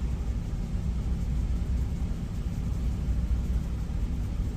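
Steady low rumble of an idling truck engine, even and unchanging.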